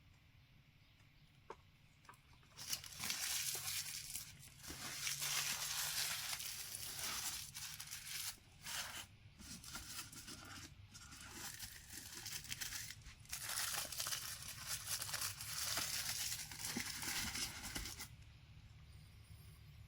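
Packaging crinkling and tearing as a boxed statue is unwrapped, in several bursts with short pauses, starting about two and a half seconds in and stopping near the end.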